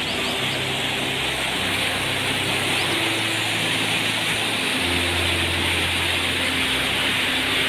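Steady loud rushing noise, with low sustained musical notes that change every second or two underneath.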